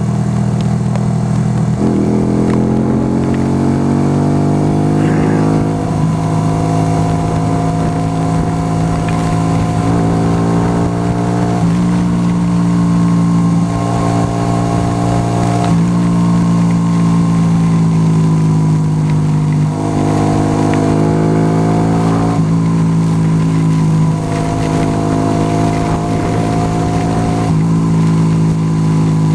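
Yamaha YBR 125 single-cylinder four-stroke engine under way. Its pitch rises as it accelerates and drops at each gear change, several times over, with a steady low rumble of wind noise underneath.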